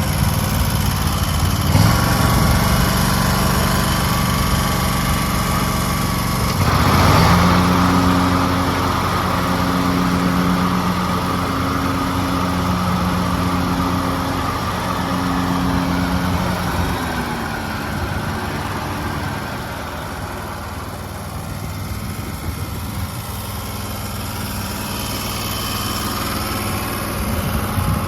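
Kawasaki V-twin gasoline engine of a 2022 Wright Stander X stand-on mower running steadily. It gets louder about seven seconds in and eases off somewhat after about twenty seconds.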